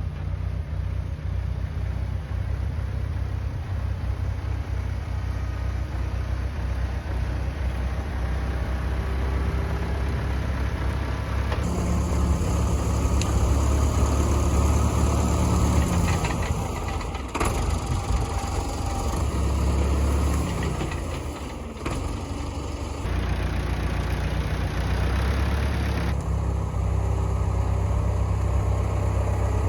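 Massey Ferguson farm tractor engine running steadily, its speed dipping and changing for a few seconds past the middle.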